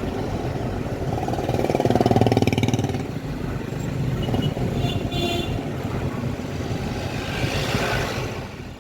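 Street traffic: steady vehicle noise, with one engine passing loudest about two seconds in, fading out at the end.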